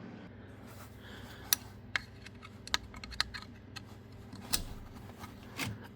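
Scattered light clicks and taps, about six over a few seconds: a 1/4-inch Allen key being handled and fitted into the hex socket on the underside of an InSinkerator garbage disposal.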